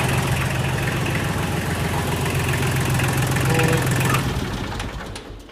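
Diesel tractor engine idling, then shut down with its stop lever: the steady idle runs down and dies about four seconds in.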